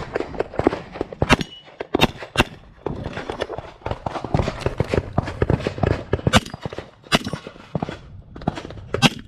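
Pistol shots from a .40 S&W STI 2011 competition handgun during a timed course of fire. They come at an irregular pace, some as quick pairs, among smaller knocks and clatter from the shooter's movement.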